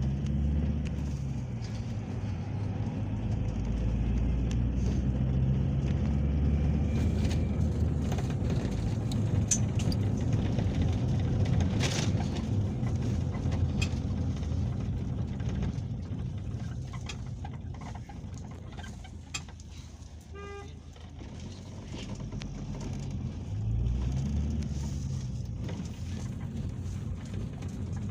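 Peugeot Boxer minibus heard from inside the cabin: the engine pulls and changes pitch with road noise, drops to a quieter low run about halfway through, then pulls away louder again near the end. A short beep about two-thirds of the way in.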